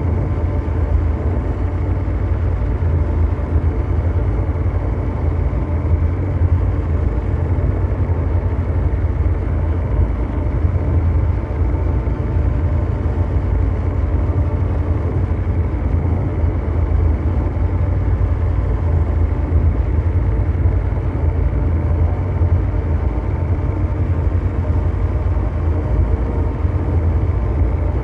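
Synthesized mechanical drone: a steady, deep brown-noise rumble with faint held hums layered above it, like a huge engine running without change.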